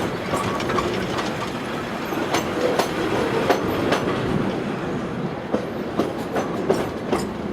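Railway carriage running along the track, heard from on board: a steady rumble with frequent sharp clicks and knocks as the wheels pass over rail joints.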